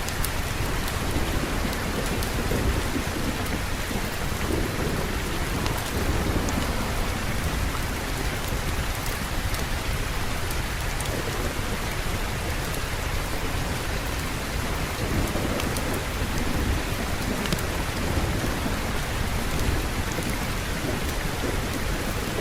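Steady heavy rain with low rolling thunder rumbling underneath, swelling a few times.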